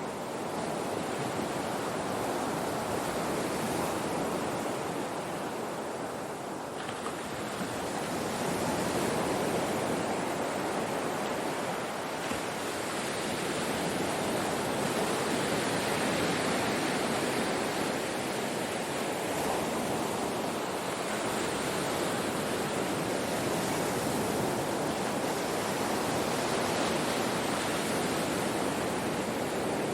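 Ocean surf washing on a shore: a continuous rush of breaking waves that swells and eases slowly over several seconds.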